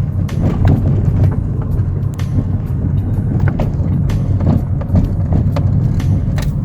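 A vehicle driving over a rough road: a steady low rumble with frequent knocks and rattles.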